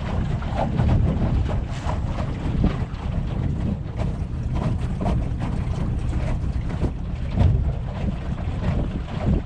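Wind rumbling and buffeting against the microphone aboard a moving boat, an uneven low rumble with scattered small knocks.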